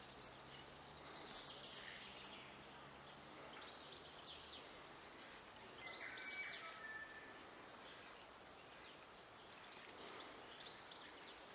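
Faint birdsong: scattered short chirps and whistles from several birds over a quiet background, with a faint low hum during the first few seconds.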